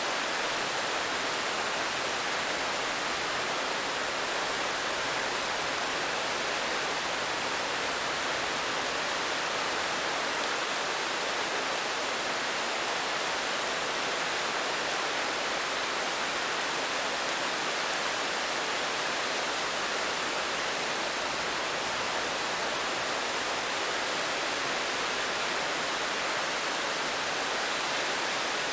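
Steady rain falling, an even, unbroken hiss with no single drops, thunder or other sounds standing out.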